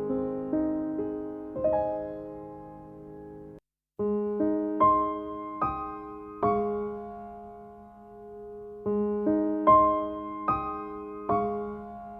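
Calm background piano music: slow single notes that strike and fade over a held low tone. It cuts out completely for a moment about three and a half seconds in, then starts again.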